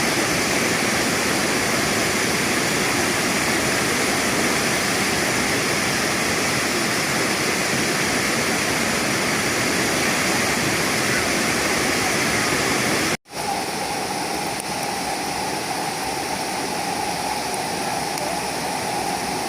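Steady rushing of a waterfall. It cuts out for an instant about two-thirds of the way through and comes back with a slightly different tone.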